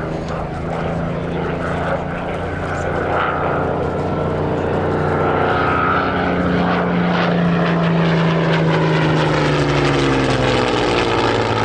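Propeller aircraft engines droning steadily in a flypast, their tone dropping in pitch over the last couple of seconds as the aircraft passes.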